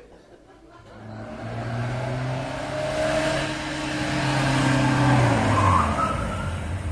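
Car sound effect: an engine swells up from quiet and runs loudly, with a short rising squeal about five and a half seconds in.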